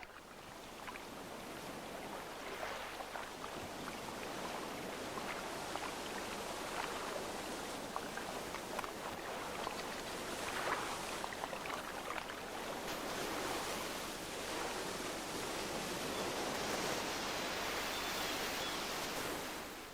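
Surf washing over a rocky shore, a steady hiss of breaking water that swells in over the first couple of seconds and drops away near the end.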